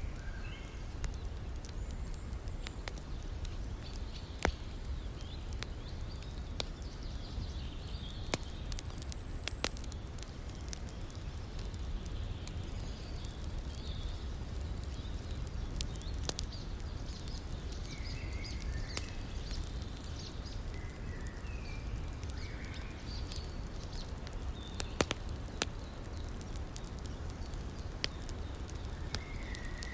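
Wood campfire crackling, with scattered sharp pops, over a steady rushing of river water. Birds chirp briefly now and then, a few times in the second half.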